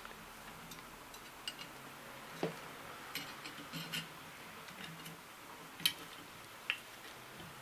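Faint, scattered small metallic clicks and ticks as a bearing puller is worked on an angle grinder's rotor shaft to draw off a bearing's inner race, with a few sharper clicks among them.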